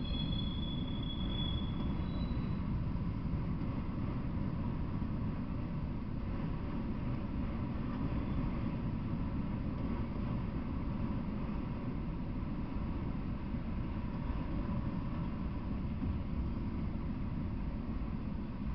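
Freight train of autorack cars rolling past: a steady, even rumble of steel wheels on the rails. A thin high squeal sounds briefly in the first second or two.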